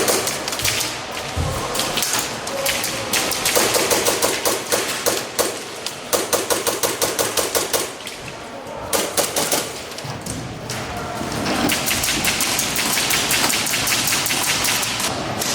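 Airsoft guns firing on full auto: long strings of fast, evenly spaced shots in a rattling burst, with short lulls between strings.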